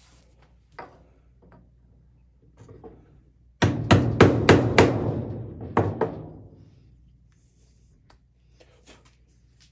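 A hammer striking a chisel into a wooden disc to cut the recess for a bolt head: five quick blows a little over halfway through and one more a second later, each with a short ring.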